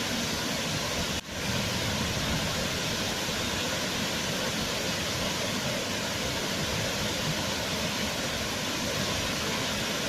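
Waterfall: a steady, even rush of falling water, dipping briefly for an instant about a second in.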